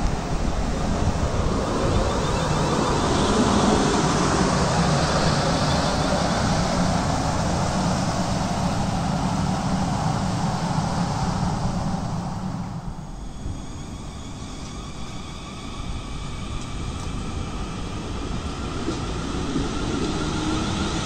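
A train passing at speed, a steady rushing rumble of wheels and running gear that drops away suddenly about two-thirds of the way in. Near the end a rising hum builds again.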